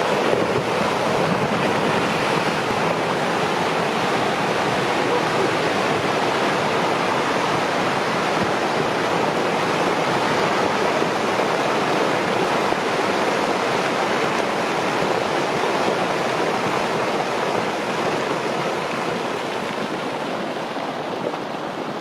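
Steady, loud rushing noise, easing slightly near the end.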